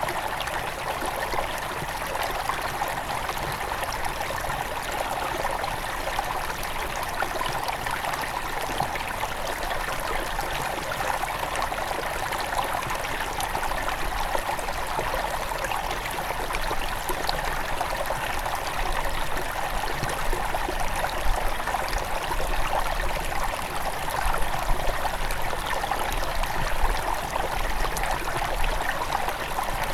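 Small forest river near its source flowing and babbling steadily over stones, with a few louder splashes and gurgles in the second half.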